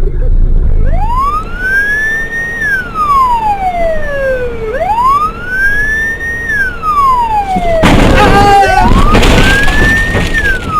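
Emergency-vehicle siren wailing, its pitch rising and falling in slow sweeps about four seconds apart. About eight seconds in, a loud harsh burst of noise lasting about two seconds covers the siren.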